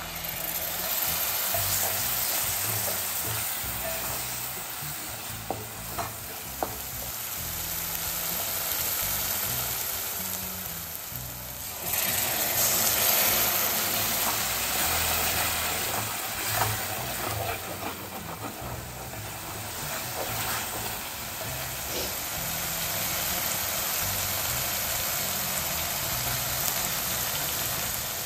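Onion-tomato masala sizzling as it fries in an aluminium pot, with a few sharp clicks from stirring against the pot. The sizzle jumps louder about twelve seconds in.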